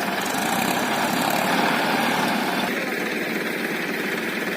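Tractor engine running steadily, a dense, even mechanical sound with a slight change in tone just under three seconds in.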